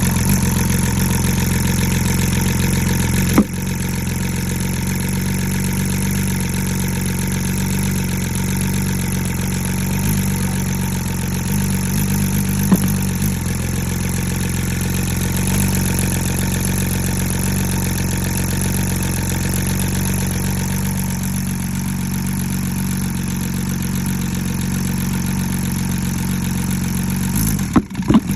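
Car engine idling with a misfire: a steady idle broken by a couple of sharp pops, and a brief stumble near the end.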